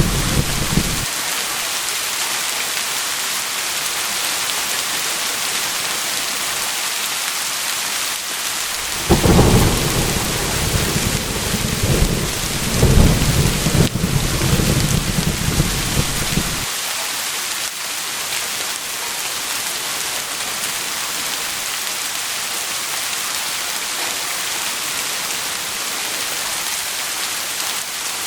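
Steady rain falling, with thunder rumbling low under it: a rumble fading out about a second in, and another rolling in several swells from about 9 to 16 seconds.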